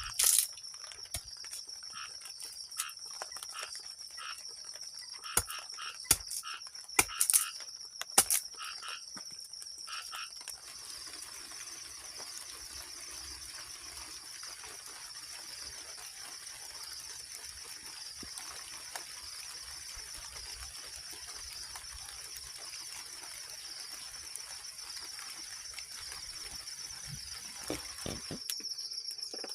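Steady high-pitched chorus of crickets and other insects trilling. A scatter of sharp knocks and clicks comes in the first ten seconds or so.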